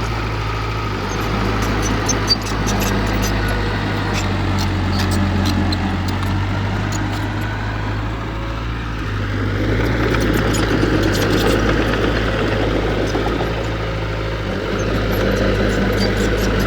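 Heavy earthmoving machine's diesel engine running steadily, its pitch shifting slightly now and then, with scattered light clicks and clanks and one sharp knock about two seconds in.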